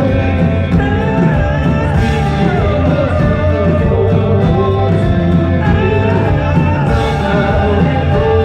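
Rock band playing live: a singer over loud electric guitar and drums, held at a steady loud level.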